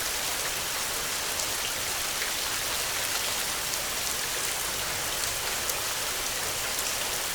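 Heavy rain falling steadily, with many small drop ticks over an even hiss.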